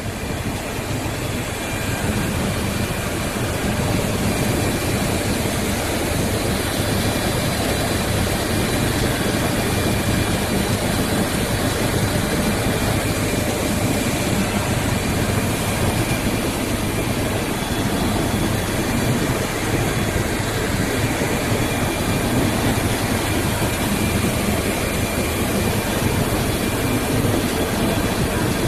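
Plastic pulverizer mill running and grinding plastic into fine 30 mesh powder: a loud, steady machine noise with a faint whine in it, growing a little louder over the first few seconds and then holding.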